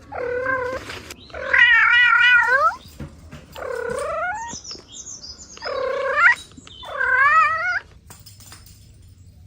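A cat meowing five times in a row. The calls are drawn out, each lasting about a second, and two of them waver in pitch.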